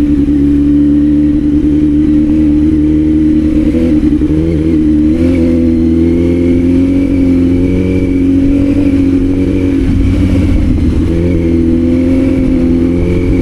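Kawasaki Z900's inline-four engine running under way, its note steady and then shifting in pitch about four seconds in and again near ten seconds.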